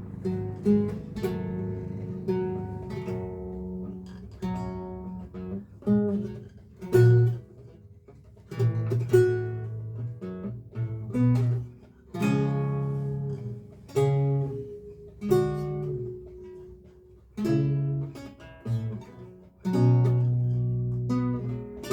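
Lute playing a slow recercar: single plucked notes and chords that ring out and fade, with short pauses between phrases.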